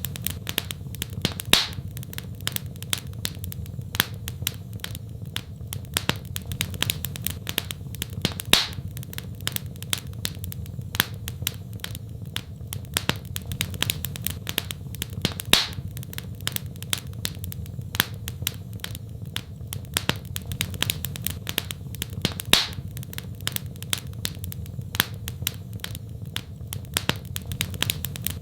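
Fireplace fire crackling: a dense run of small sharp snaps with a louder pop about every seven seconds, over a steady low rumble.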